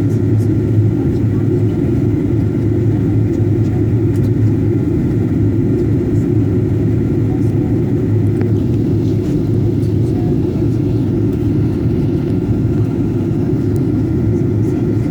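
Steady low rumble of a jet airliner's cabin, engine and airflow noise heard from inside the passenger cabin, with a faint steady whine above it.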